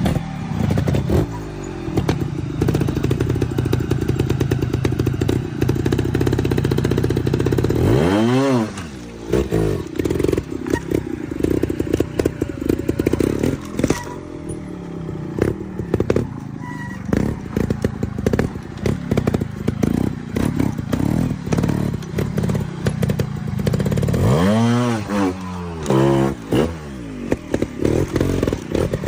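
A trials motorcycle engine running, with the revs jumping up and falling back sharply about eight seconds in and again a few seconds before the end. In between it runs unevenly with choppy throttle pulses.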